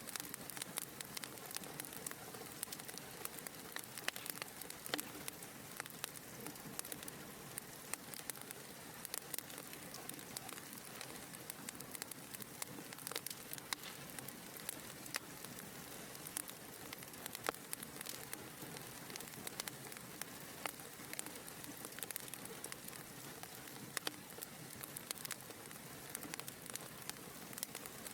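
Fireplace fire crackling steadily: a soft hiss with frequent small, sharp pops at irregular intervals.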